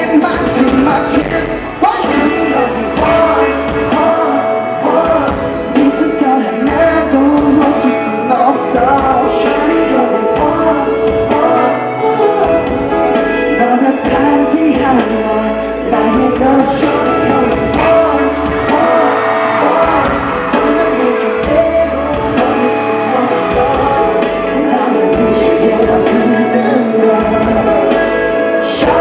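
Music: a Korean-language pop-rock song, with a singer over a full band backing.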